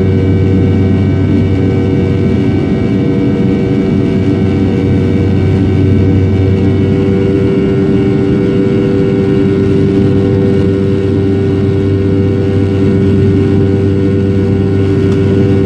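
Sukhoi Superjet 100's two PowerJet SaM146 turbofans running at takeoff power: a loud, steady drone with several held hum tones that stay constant throughout.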